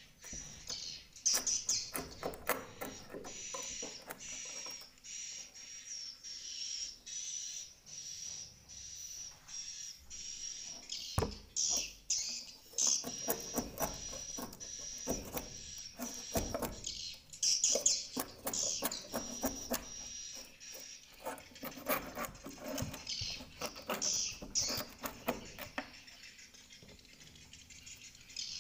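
Swiftlets twittering and chirping in a swiftlet house, a high thin chatter rising and falling in bursts over a steady high-pitched call, with many sharp clicks among them.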